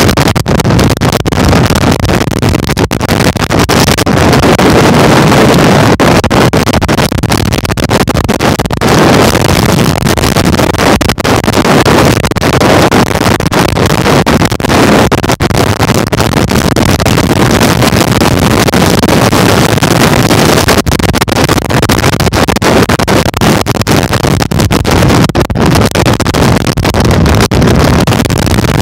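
Loud, steady rushing rumble of wind buffeting the microphone while riding.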